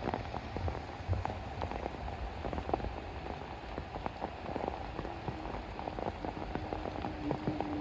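Steady rain falling, with many separate drops striking a surface. A faint steady tone comes in about five seconds in.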